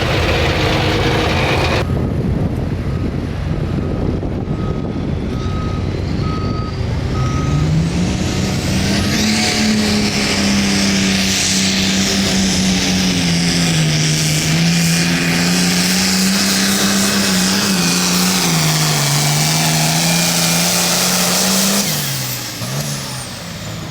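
Turbocharged diesel pulling tractor making a pass down the track. About 7 s in the engine climbs to full power with a rising turbo whistle, then holds there, wavering in pitch, for some fourteen seconds. Near the end it drops off abruptly and the whistle winds down. A few short beeps sound a few seconds in.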